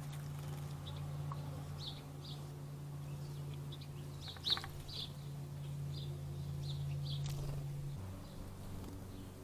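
Small birds giving short, high chirps scattered through, over a steady low hum that shifts in pitch about eight seconds in. A single brief sharp sound about four and a half seconds in is the loudest moment.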